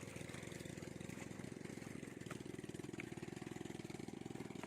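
Small engine running steadily, a rapid, even pulsing with no change in speed.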